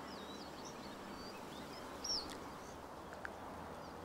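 Birds chirping intermittently with short, wavering high calls over a faint steady background hiss; the loudest chirp comes about two seconds in.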